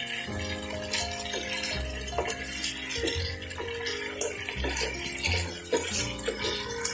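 Chicken pieces sizzling in hot oil and spice paste in a pot, stirred and scraped with a wooden spatula, over background music with held notes and a pulsing bass.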